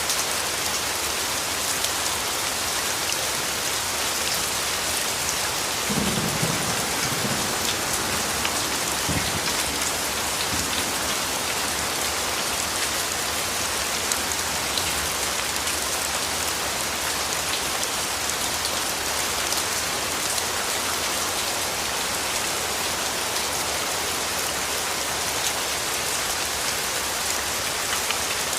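Steady rainfall pattering, with a brief low rumble of thunder about six seconds in and a shorter one a few seconds later.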